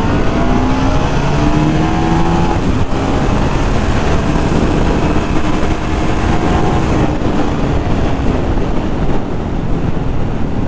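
Ducati Multistrada 1200 S V-twin engine accelerating hard under the rider, pitch rising, then dropping back about two and a half seconds in before climbing again more slowly, with wind buffeting the microphone. It pulls freely now that its seized exhaust valve has been removed.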